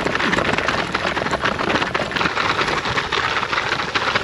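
Orro Terra C gravel bike rolling fast over frozen, rutted ground: the tyres hiss on the hard surface while the unsuspended bike shakes out a dense, continuous rattle of small knocks from the rock-hard bumps.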